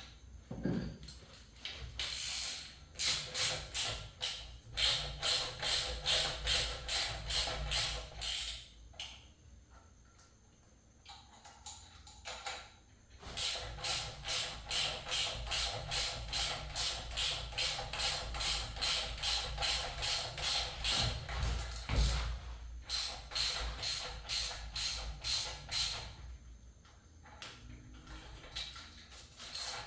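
Hand ratchet wrench clicking in steady back-and-forth strokes while fastening parts of a VQ37VHR engine's timing-gear assembly, with a pause in the middle.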